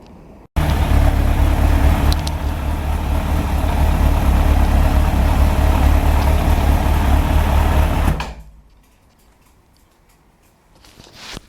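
Suzuki GSF1200 Bandit's carbureted inline-four running at low revs, then coughing and stalling, dying out about eight seconds in. The owner blames a fault that makes it spit back into the carburetor below about 2000 rpm, still present after a valve adjustment and new spark plugs.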